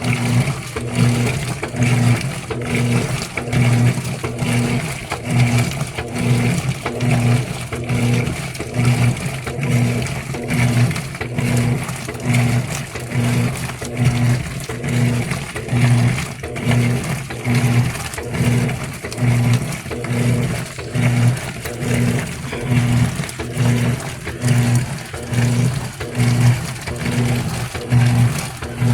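GE Spacemaker laundry center's washer agitating during the wash: the motor hum swells and drops in an even rhythm of about one stroke a second.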